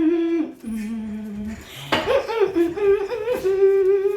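A voice humming long wordless notes of a worship song: a lower note, then a higher note held from about halfway through.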